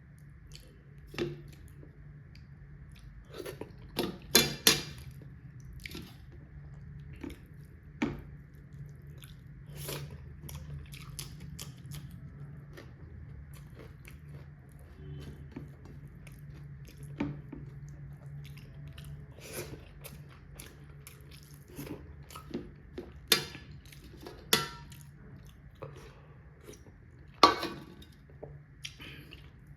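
A person chewing and biting food close to the microphone, with scattered crunches and clicks; a few sharp ones, about four seconds in and again near the end, are the loudest. A low steady hum runs underneath.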